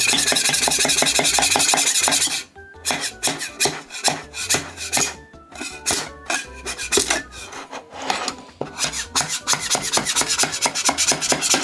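Harsh scraping and rasping as a 3D-printed figure is pried and scraped off the printer's print bed. There is a loud continuous rasp for about two seconds, then a long run of short, rough scraping strokes.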